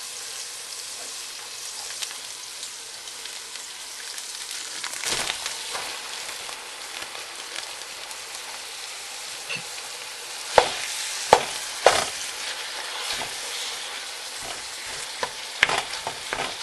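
Chopped onion and garlic frying in oil in a stainless steel stockpot, a steady sizzle. A few sharp knocks against the pot come in the second half, as a block of ground beef is put into the pot and worked.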